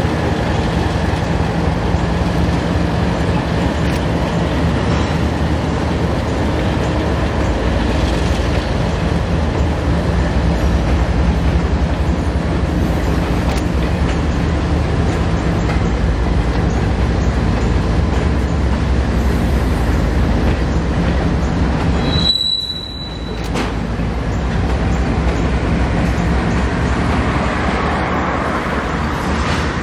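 Loaded freight train rolling past: a steady rumble and rattle of wheels on rail, with a brief high wheel squeal and a short dip in the noise about three-quarters of the way through.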